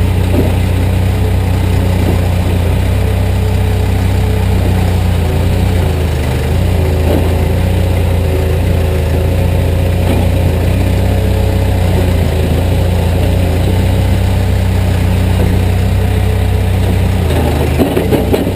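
Caterpillar 428B backhoe loader's diesel engine running steadily, with a few short knocks near the end.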